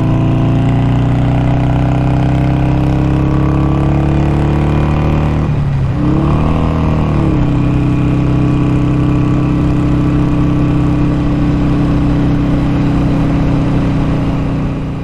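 Harley-Davidson Sportster 883 SuperLow's air-cooled V-twin engine running steadily under way. About six seconds in, its pitch drops and then climbs back before it holds steady again.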